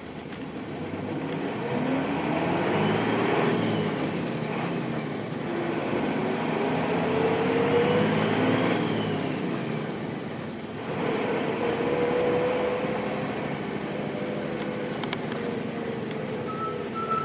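Nissan Diesel Space Runner RM bus's FE6 straight-six diesel heard from inside the cabin, accelerating through the gears. Engine pitch climbs, drops at a gear change a few seconds in, climbs again, and drops at a second shift about ten seconds in before running steady. A steady high tone comes in near the end.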